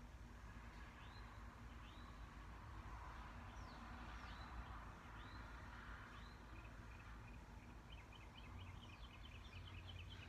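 Faint bird chirping: scattered short chirps that fall in pitch, then a quick run of short repeated notes near the end, over a low steady hum.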